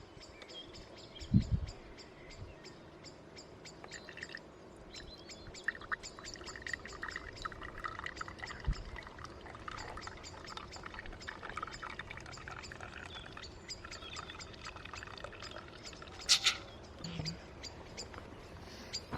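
Birds chirping outdoors, with a couple of soft knocks and a brief hissing burst near the end.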